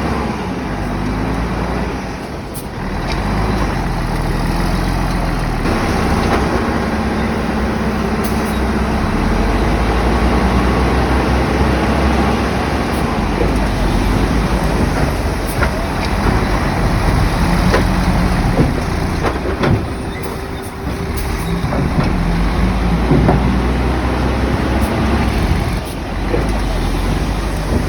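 Komatsu bulldozer's diesel engine running hard, its pitch rising and falling as the throttle changes, with two brief drops in engine note. Scattered sharp knocks sound over the engine.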